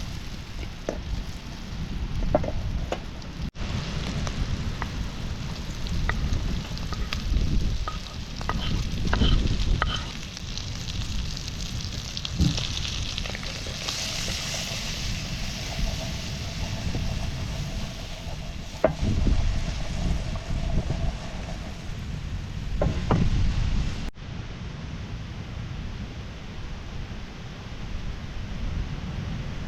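Cooking over a charcoal campfire: food sizzling in a pan, with a utensil stirring and scraping against it in scattered clicks. Wind rumbles on the microphone, and the sound breaks off abruptly twice at edit cuts.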